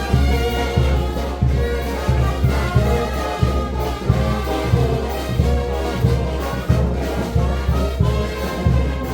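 Brass band playing: a brass melody over a steady, strong low beat.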